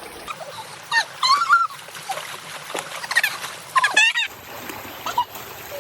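High-pitched wavering squeals and cries from people, in short outbursts about a second in and again around three and four seconds, over the steady rush of a mountain stream, with some splashing.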